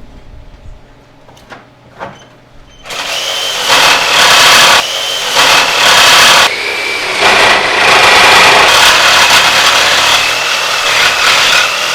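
A few faint clicks, then about three seconds in a power tool starts running in long, loud bursts with a high whine that drifts in pitch, stopping briefly a couple of times.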